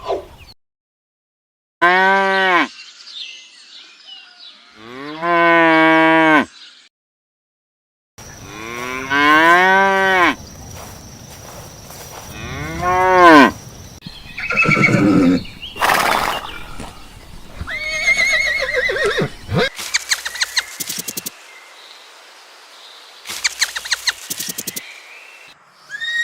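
Cattle mooing: four long, drawn-out moos in the first half, then a run of shorter, higher calls.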